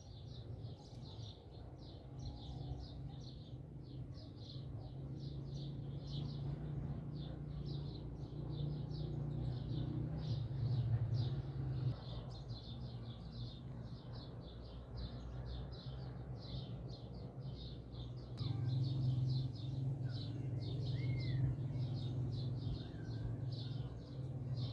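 Outdoor chirping: short high chirps repeating a few times a second without a break, over a steady low rumble that swells about a third of the way in and again near the end.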